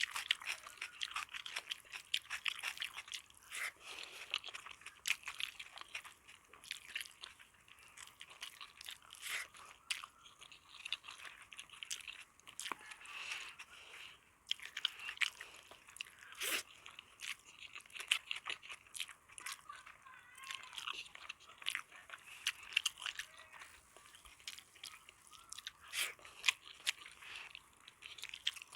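Close-miked chewing with frequent sharp, crisp crunches, irregular and continuous: mouth sounds of eating crunchy food.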